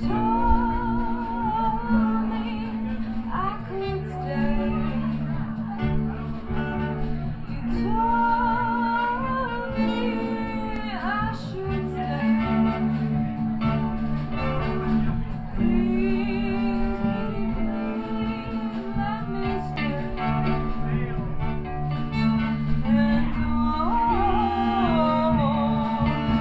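A woman singing a slow song with a wide vibrato, backed by instruments with a steady bass line.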